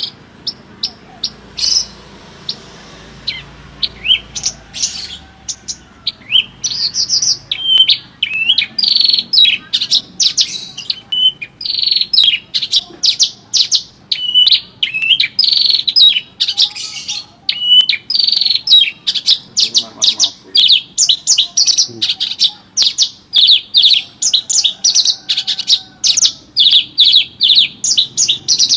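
A songbird singing a fast, busy song of sharp chirps and short sweeping notes. It starts sparse and becomes almost unbroken after about six seconds.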